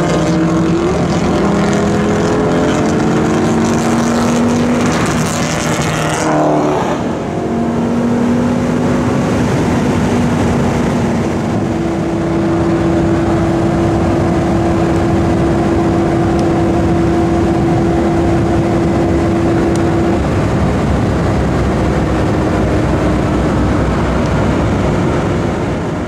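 Lamborghini Gallardo V10 engine heard from inside the cabin over road noise. It pulls hard at first, with a rushing surge building about four to six seconds in that drops away suddenly. It then runs at steady revs with an even drone.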